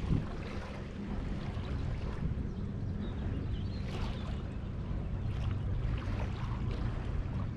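Steady low rumble under a rushing, wind-and-water-like noise, with a faint hum beneath.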